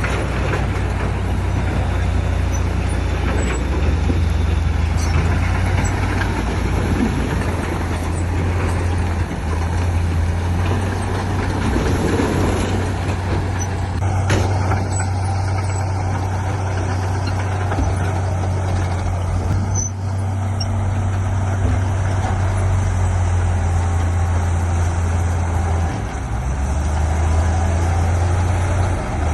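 Heavy diesel earthmoving machinery, bulldozer and dump truck, running steadily at work with a deep, continuous engine drone and rumbling noise.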